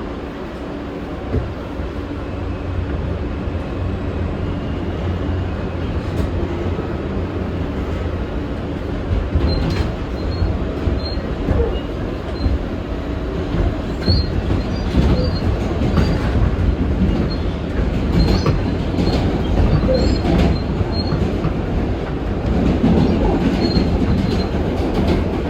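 New York City subway R train running between stations, heard from inside the car: a steady low rumble of wheels on the track that grows louder, with short high wheel squeals from about ten seconds in.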